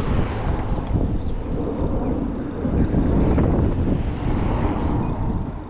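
Wind rushing over the microphone with street and traffic noise on a moving e-bike ride; the rumble swells in the middle and eases near the end.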